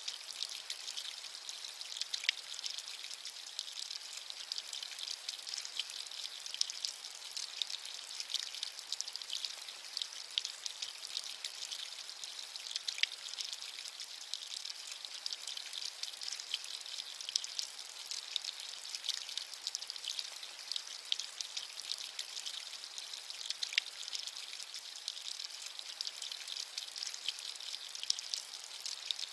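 Steady rain: a dense patter of drops falling on a surface, with a few louder single drops.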